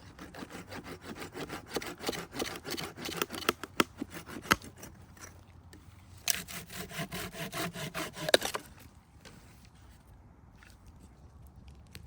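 Hand saw cutting wood in quick back-and-forth strokes. There are two runs of strokes with a short pause between them, and the sawing then stops.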